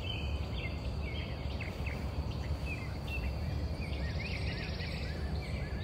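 Small birds chirping with many short, quick calls over a steady high-pitched hum and a constant low rumble.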